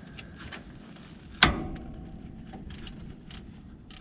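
A single loud, sharp metallic clank about a second and a half in, ringing briefly as it fades. Small clicks and scrapes of hand work on the truck's starter come before and after it.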